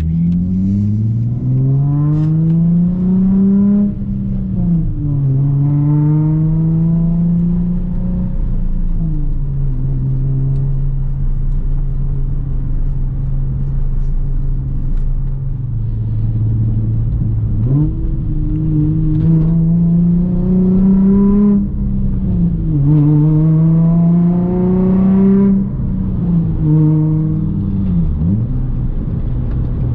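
Nissan 350Z 3.5-litre V6 running through a loud exhaust of resonated test pipes, a Y-pipe, one resonator and a muffler delete, which the owner says has an exhaust leak. The engine note climbs in pitch over a few seconds, drops back and holds steady several times, with a steadier low stretch in the middle.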